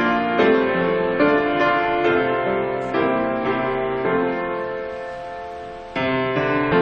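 Solo piano playing slow, gentle chords; a long chord is held and fades for about two seconds before a new one is struck near the end.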